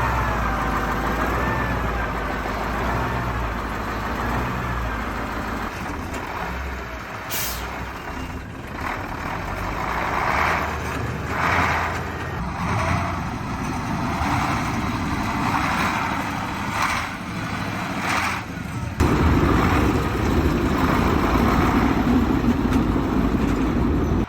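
Kamaz truck's diesel engine running as it warms up in the cold, with repeated surges in the middle. About nineteen seconds in it turns to a louder, steadier sound.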